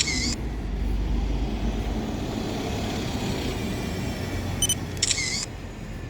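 A digital camera's shutter sound twice, once at the start and once about five seconds in, the second just after a short electronic focus beep, over the low engine rumble of a bus.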